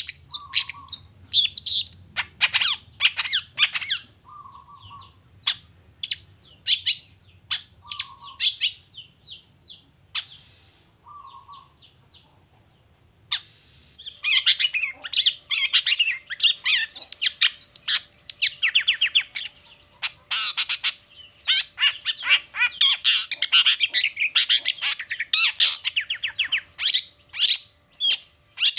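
Long-tailed shrike (cendet) singing a varied run of harsh squawks and rapid chattering trills, showing off its repertoire of mimicked phrases. It breaks off briefly in the middle, then sings a long, dense run of fast trills.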